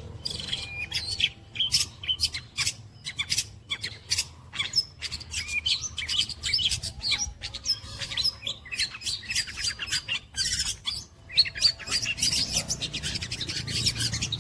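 Long-tailed shrike (cendet) singing a fast, dense run of sharp chirps, squawks and chatter, a mimicking song with imitations of other birds. It goes on almost without a break, with a brief pause a little past the middle.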